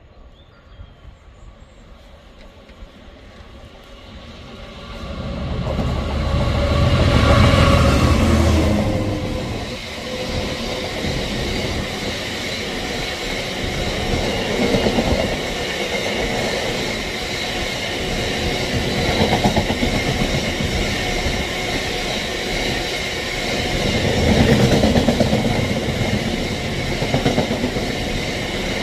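Diesel-hauled freight train of Drax biomass hopper wagons passing through a station. The locomotive approaches and is loudest about seven seconds in, then falls away. A long rake of loaded hoppers follows, rolling by with steady wheel clatter and a high whine from the wheels on the rails, swelling every few seconds.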